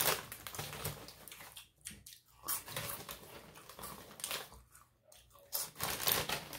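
Close-up chewing of crunchy Cheetos-style cheese puffs (Rap Snacks Hot Cheese Fries): runs of crisp crunches with two short pauses.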